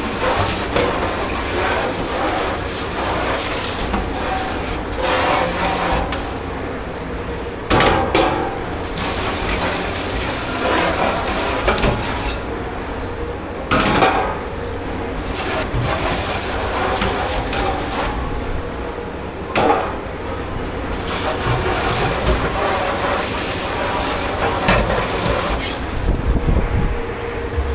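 Commercial dishwashing: running water hissing over a sink, with dishes, pans and cutlery clattering and three louder knocks spread through.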